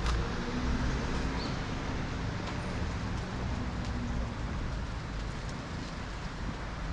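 Steady city road-traffic noise with a low rumble and a faint engine hum.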